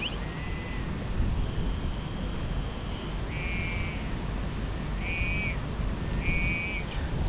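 Heavy wind buffeting the microphone, with an XP Deus metal detector sounding target tones over it: a long steady tone in the first half, then three short pitched beeps about a second apart.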